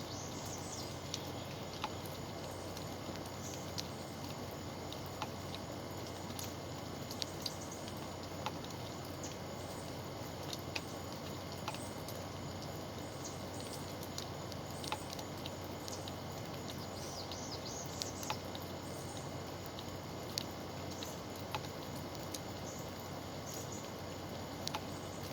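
Steady outdoor background hiss with scattered short, high-pitched ticks and chirps, roughly one every second or two.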